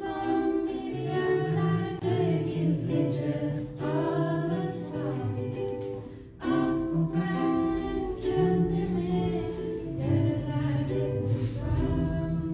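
A woman singing a slow song over instrumental accompaniment, with a short pause about six seconds in.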